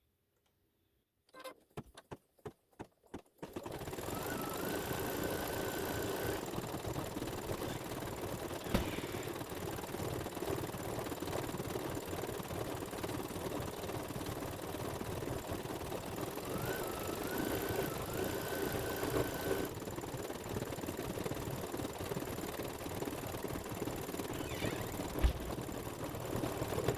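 Embroidery machine stitching a section of a design: a few separate clicks as it starts, then a steady, fast needle-and-motor clatter with a short rising whine twice.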